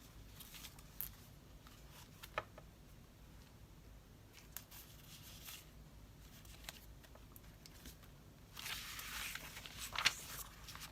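Paper and sticker handling at a craft desk: scattered light taps and clicks, then a longer paper rustle near the end with a sharp click.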